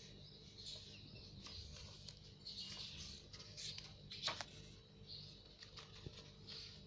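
Indian ringneck parrot making faint, scattered soft chirps, with a few sharp clicks, the loudest about four seconds in.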